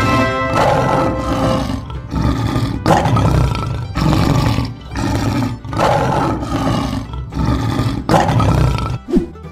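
A lion roaring over and over, about one roar a second with short breaks between them.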